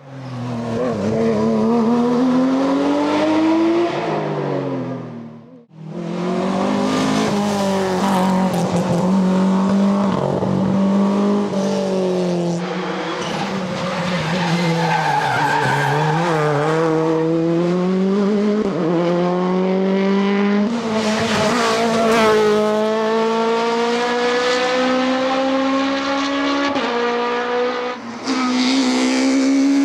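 Rally cars driven hard, engines revving up and falling back through gear changes, heard in several short passes cut one after another, with tyre noise.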